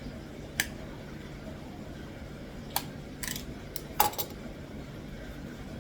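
About six short, sharp clicks and clinks from hands working at the shipping bags and containers, the loudest about four seconds in, over a steady low hum of fish-room equipment.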